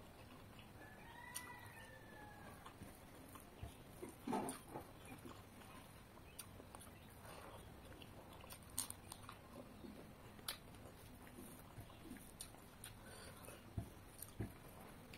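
Quiet eating sounds: soft chewing and lip smacks with scattered small clicks, one louder smack about four seconds in.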